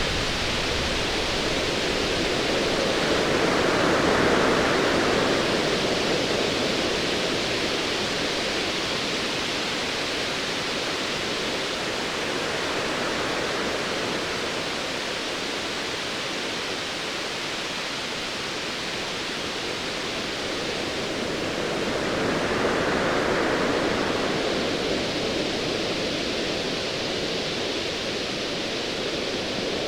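Ocean waves on a stormy sea: a steady wash of surf that swells twice, about four seconds in and again about twenty-three seconds in.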